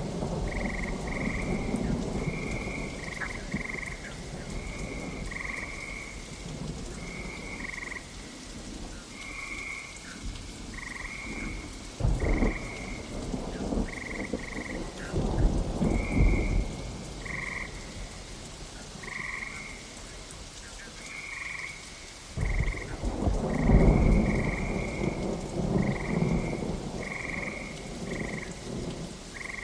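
Steady rain with thunder rumbling about twelve seconds in, again around fifteen seconds, and in a longer, louder roll from about twenty-two seconds. Frogs call throughout in short, high croaks repeated every second or so.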